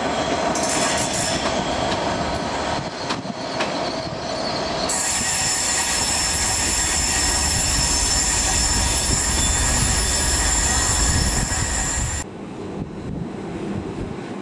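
Class 67 diesel locomotive hauling coaches over curved track and pointwork: wheels clicking over the rail joints, then a steady high-pitched wheel squeal from about five seconds in. Near the end it cuts off abruptly to a quieter station background.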